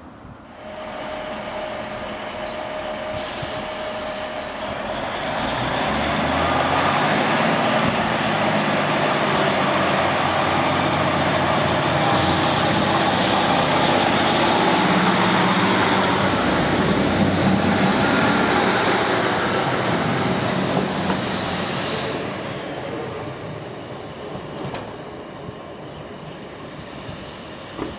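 A train running past on the main line. Its rumble builds over a few seconds, holds loud for about fifteen seconds with a high whine that climbs in pitch and then stays steady, and fades away near the end.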